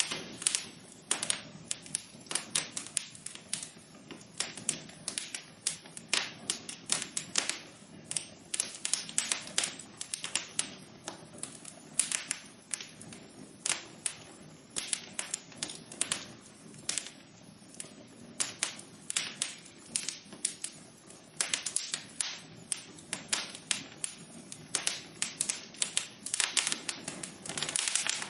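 Wood fire crackling in a fireplace: many sharp irregular pops and snaps over a soft steady hiss of burning.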